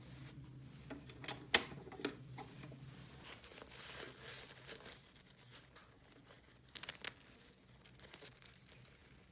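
Hands handling crinkly packaging and small plastic toy pieces: rustling and tearing with sharp clicks, the loudest about a second and a half in and a quick run of clicks near seven seconds.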